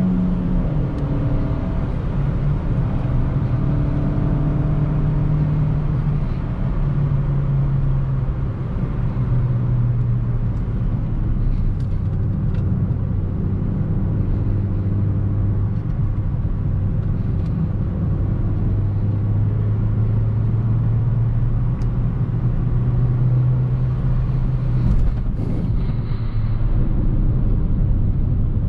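The 2008 Suzuki Swift Sport ZC31's 1.6-litre VVT four-cylinder engine running while driving, over steady road rumble. The engine note falls in several steps over the first ten seconds, then holds low and steady, rising briefly near the end.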